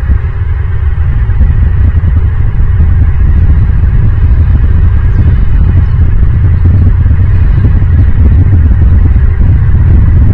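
Loud, steady low rumble without a clear pitch, swelling slightly about a second in.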